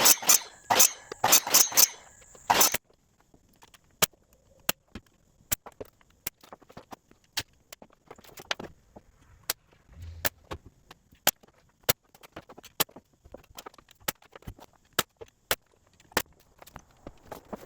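Quarter-round trim being cut: a quick run of loud saw strokes that stops about three seconds in, followed by a long string of sharp, separate clicks and taps, roughly one or two a second.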